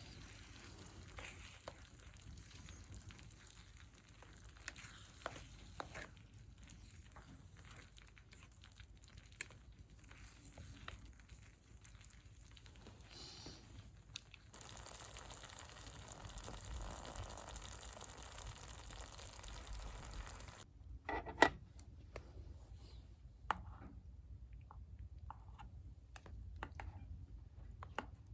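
Faint sizzling of mapo tofu cooking in a pan over a wood fire, with scattered small clicks and clinks and one sharp clink about 21 seconds in.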